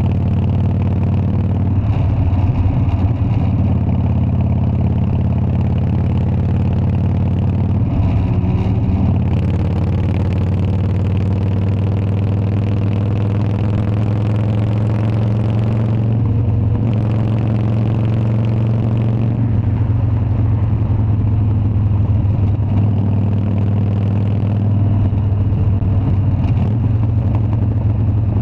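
Harley-Davidson Dyna's air-cooled V-twin engine running steadily with a deep exhaust note, its pitch rising and falling a few times.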